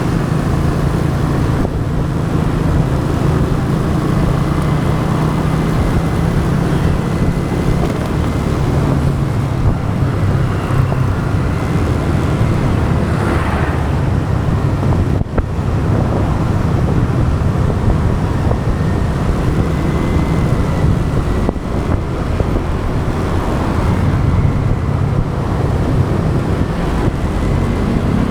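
Motorbike riding in road traffic: a steady engine drone and wind rush on the camera's microphone, with the noise of surrounding cars and trucks.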